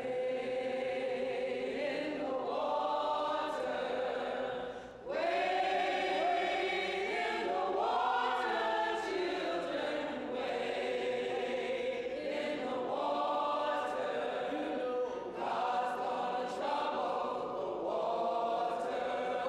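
A choir singing long held notes, with a short pause about five seconds in.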